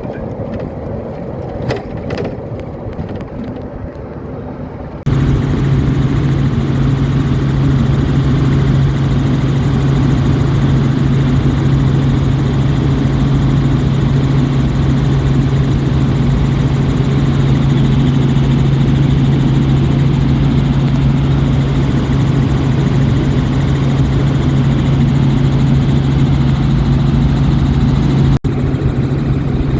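Helicopter engine and rotor heard from on board with the doors off: a loud, steady drone with a strong low hum under a rush of wind. It cuts in abruptly about five seconds in, after a quieter stretch with a few clicks, and drops out for a split second near the end.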